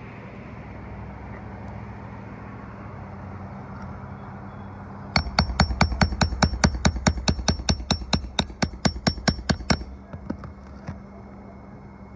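A hammer striking in a quick, even run of about two dozen metallic blows, roughly five a second, starting about five seconds in and stopping about five seconds later, over a steady low hum.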